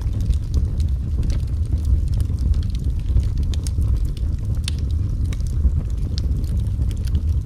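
Wood fire burning in a fireplace: a steady low rumble of the flames with many scattered sharp crackles and pops.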